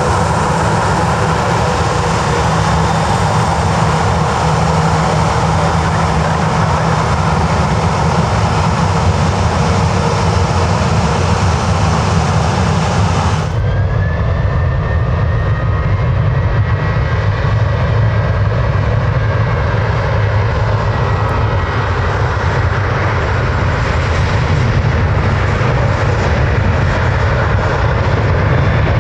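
Jet airliner engines running loud and steady, a dense rushing noise with a faint whine. About halfway through the sound changes abruptly, losing its top end, and a faint slowly rising whine follows.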